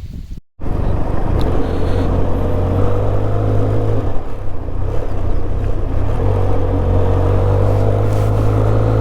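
Benelli TRK 502 parallel-twin motorcycle engine running steadily while riding, starting abruptly about half a second in, with a small shift in its pitch midway.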